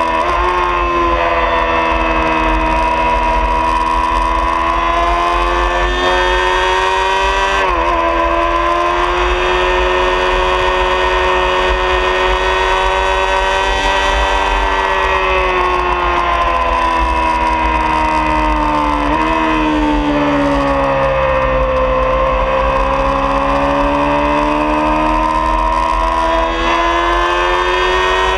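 Honda CBR600RR's inline-four engine pulling hard at speed on track, its pitch sagging and climbing with the throttle, with sudden breaks at gear changes about eight and nineteen seconds in. Wind rushes over the microphone throughout.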